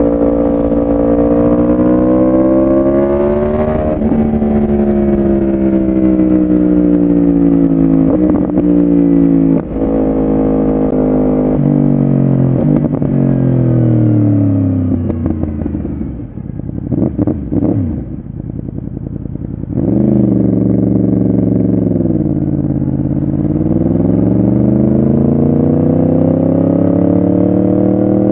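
Yamaha R1 inline-four with a full aftermarket exhaust system, running under changing revs. The pitch climbs for a few seconds, then falls for about twelve seconds with several step-like drops. It goes quieter and choppy for a few seconds past the middle, then picks up, dips and climbs again near the end.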